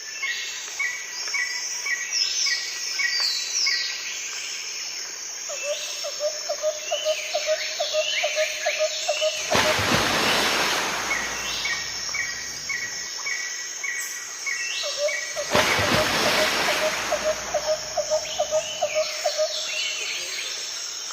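Birds chirping and calling, with short repeated notes, while two gusts of wind rush through, the first about ten seconds in and the second about sixteen seconds in, each lasting a few seconds.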